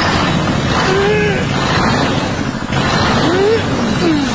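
Mini tractor engine sound running steadily, with several short gliding tones over it that rise and fall.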